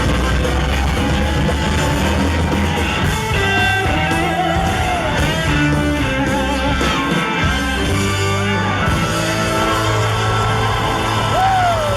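Live soul-rock band playing loudly, with bass, guitar and singing; bent, gliding high notes from a voice or slide guitar cut through near the end.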